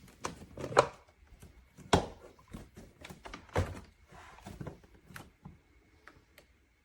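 Plastic clunks and clicks of a Tineco iFLOOR 3 cordless wet-dry vacuum being lifted off and set back onto its charging and self-cleaning base, several knocks, the loudest about a second and two seconds in. The self-cleaning cycle does not start.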